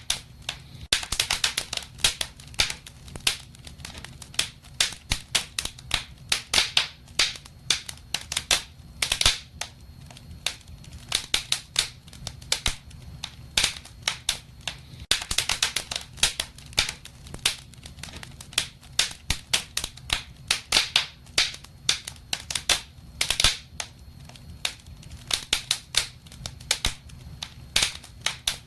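Wood fire crackling in a fireplace: irregular sharp pops and snaps, many a second, with louder clusters now and then, over a low steady hum.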